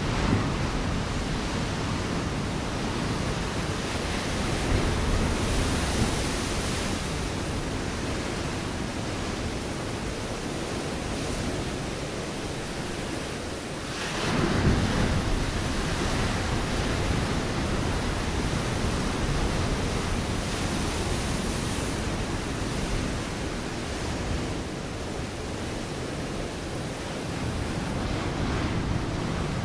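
Ocean waves breaking against a rocky shore: a continuous wash of surf that swells and ebbs, with one stronger wave crashing about halfway through. Wind adds a little rumble on the microphone.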